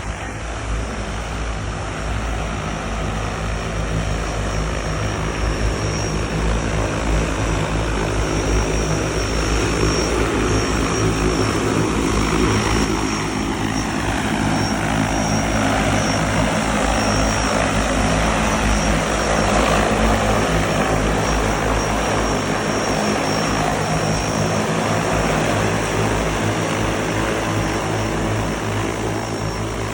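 Electric propellers of a SUNPCOM one eVTOL whirring in flight, a loud steady drone. Partway through, a tone in it sinks in pitch and then rises again.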